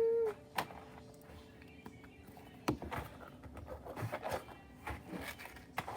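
Scattered clicks, taps and rustles of small objects being handled and rummaged through, after a short held tone that trails off at the very start.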